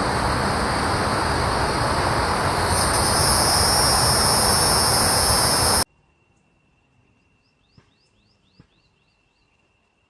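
A loud, dense insect chorus: an even hiss with steady high-pitched tones on top, cut off abruptly about six seconds in. After the cut it is nearly quiet, with a faint steady high tone, a quick run of about eight short rising bird chirps, and two faint clicks.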